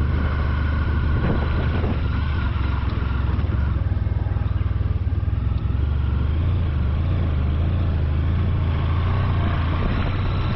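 Honda VFR1200X Crosstourer's V4 engine running steadily under way, with road and wind noise over it; the engine note rises slightly about six seconds in.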